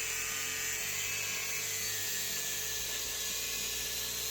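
Electric power tool's motor running steadily with a high whine and a constant pitch.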